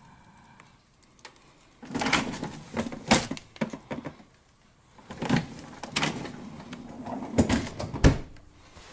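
Refrigerator doors and drawers being handled: two bouts of knocks and clatter, ending with two sharp knocks.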